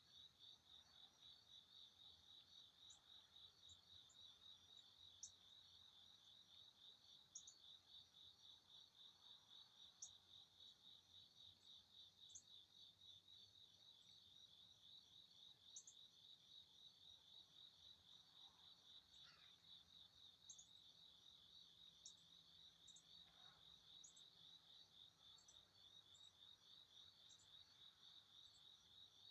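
Crickets chirping in a steady, rapidly pulsing trill, faint. Short high bird chirps come through here and there, with a faint falling call about two-thirds of the way in.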